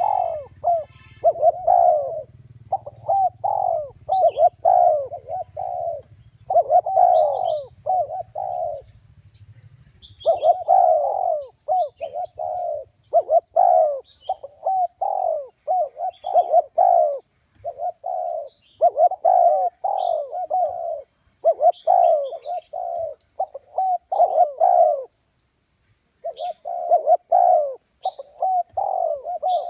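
Spotted doves cooing: repeated, overlapping cooing phrases, broken by short pauses about nine seconds and about twenty-five seconds in. A faint low hum sits under the first third, and a few short high chirps come and go.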